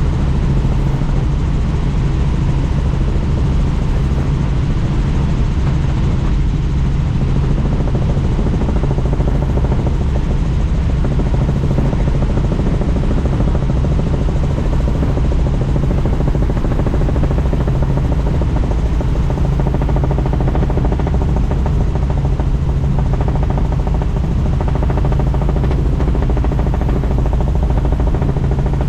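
Helicopter in flight heard from on board with the doors off: a loud, steady rotor and engine drone with a constant low hum.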